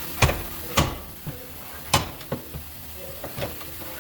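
Irregular sharp metallic knocks and clanks, three loud ones in the first two seconds and fainter ones after: metal being struck or handled during auto body panel work.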